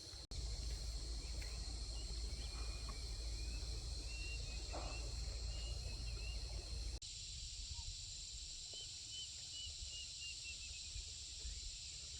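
Outdoor rural ambience: a steady high insect drone with short bird chirps over it, and a low rumble that cuts off suddenly about seven seconds in.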